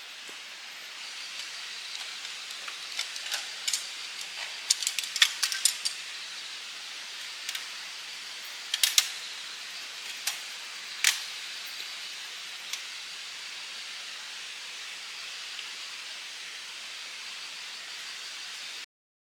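Steady rush of a valley stream with insects chirring in a thin, even high band, broken by a scatter of sharp clicks and knocks, most of them about four to six seconds in and a few more around nine and eleven seconds. The sound cuts off suddenly just before the end.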